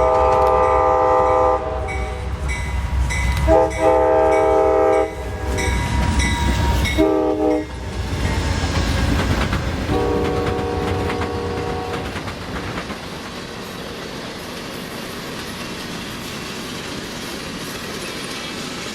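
Locomotive's multi-note air horn sounding two long blasts, a short one and a final long one, the standard grade-crossing signal, over a heavy low engine rumble. The train then rolls past with wheels clattering on the rails, fading away.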